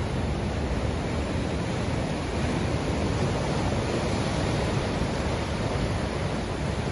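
Ocean surf: a steady wash of waves breaking on the shore, with no single wave standing out.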